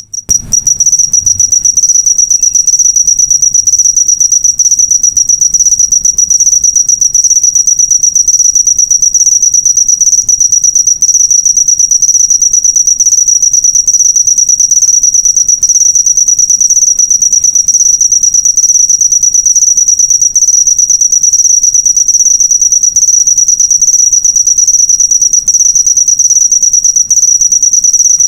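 Cricket chirping continuously, a loud, steady, high-pitched trill of very rapid pulses: a cricket-song recording of the kind played to tutor songbirds.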